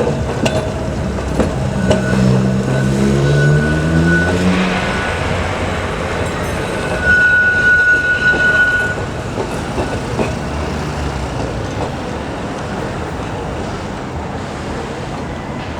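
Heritage electric tram moving off: its traction motors whine steadily upward in pitch for a couple of seconds, with clicks from the wheels on the rails. A high, steady squeal comes twice, and the sound slowly fades.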